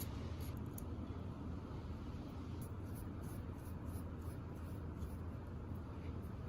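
Light, irregular scratching or rubbing strokes over a steady low hum.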